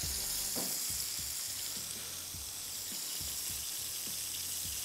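Chapli kebabs frying in shallow oil in a non-stick frying pan: a steady sizzle with faint small crackles.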